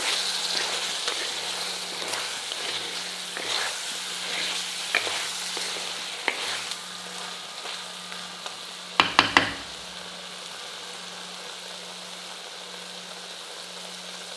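Chicken fry sizzling in oil in a heavy kadai while a spatula stirs and scrapes through the pieces. About nine seconds in come three sharp knocks close together; after that the sizzle settles to a quieter steady hiss with no stirring.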